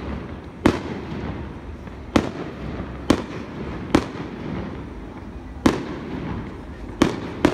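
Aerial fireworks shells bursting overhead: about seven sharp bangs at uneven intervals of roughly half a second to a second and a half, each trailing off in a rumbling echo.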